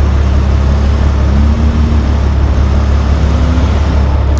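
Sprinter van's engine running under load, its pitch rising and falling twice as it is driven to try to climb back over the pavement lip, over a loud steady low rumble.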